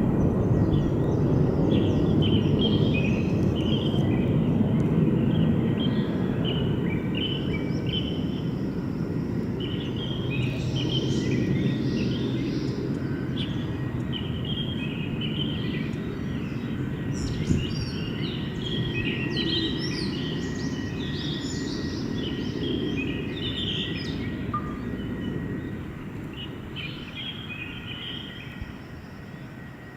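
Jet roar from a fighter jet that has just taken off, a steady rumble slowly fading away over about half a minute. Birds chirp throughout.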